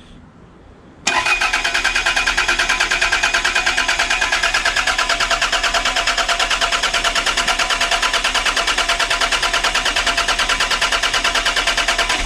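Toyota Celica SSii's freshly swapped engine being cranked by its starter motor. It starts suddenly about a second in and turns over with an even, rapid pulsing but does not fire.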